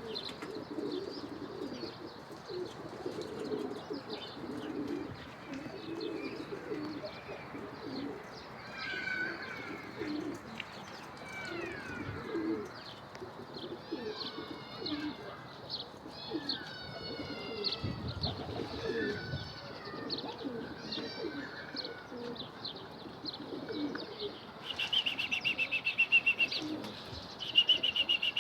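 Domestic pigeons cooing continuously, with small birds chirping and twittering over them. Near the end a bird gives a loud, rapid high trill, twice.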